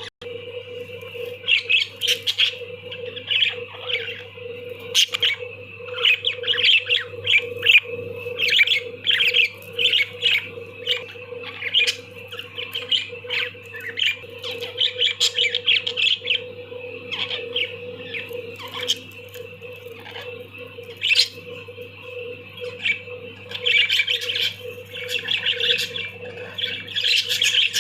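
Budgerigars chattering: a fast, busy stream of short, high chirps and squawks that dies down briefly a little past two-thirds of the way through, then picks up again, with a steady low hum underneath.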